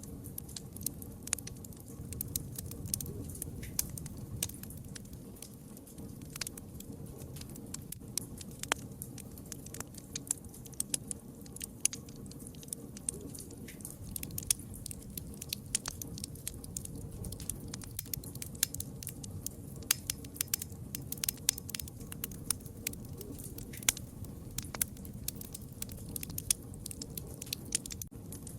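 Wood fire crackling steadily, with frequent sharp, irregular pops and snaps over a low rumble of burning.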